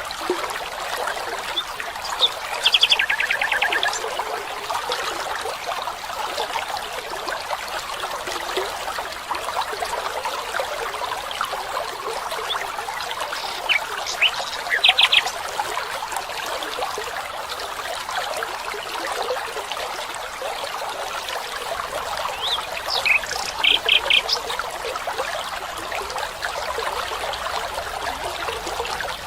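Steady trickle of a small stream or brook, with a bird calling three times in short bouts of rapid, repeated high notes.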